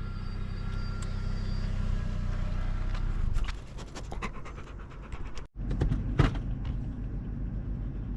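A dog panting steadily over the low rumble of a car, with a few sharp clicks and knocks in the middle.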